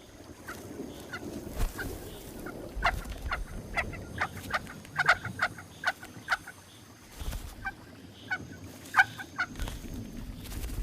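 Picathartes chicks begging: many short, sharp calls in quick, irregular runs.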